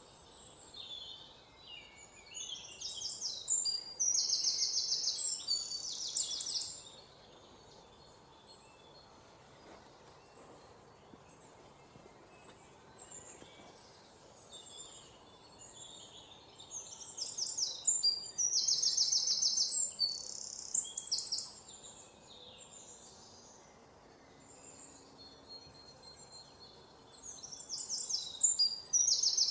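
Songbirds singing in bouts of rapid, high, trilled chirps, three times, with quieter stretches of faint background hiss between.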